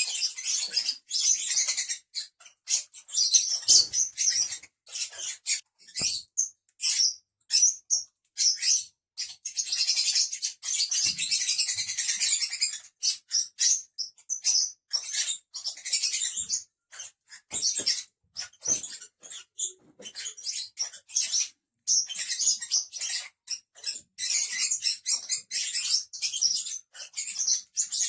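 Lovebirds chattering: rapid, shrill high-pitched chirps in near-continuous runs with short breaks, busiest about a third of the way in and again near the end.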